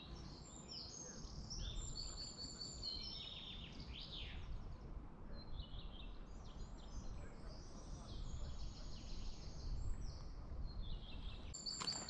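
Several small birds singing and chirping: quick high trills and twitters overlapping one another, over a low, steady background rumble.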